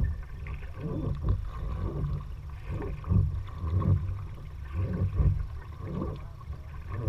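Kayak paddling: paddle strokes dipping into the water about once a second, with low rumbling wind buffeting the microphone.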